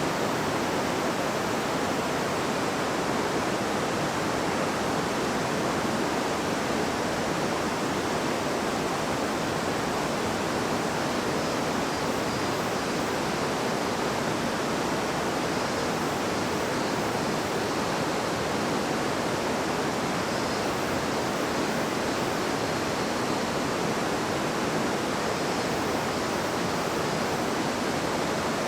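River water flowing and babbling over stones, a steady, even rush.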